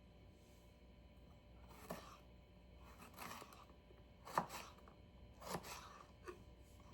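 Freshly sharpened paring knife slicing through a jalapeño pepper: about five short, crisp cuts spread a second or so apart.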